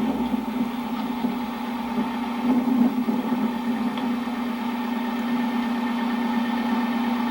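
Steady engine and road drone of a car heard from inside the cabin while driving.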